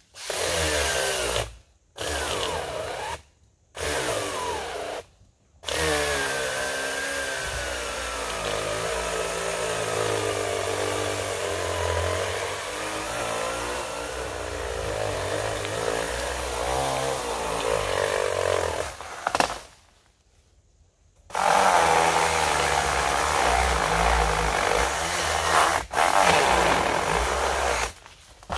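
A power tool running: three short bursts, then a long run of about fourteen seconds with a wavering pitch, a short stop, and another run of about seven seconds.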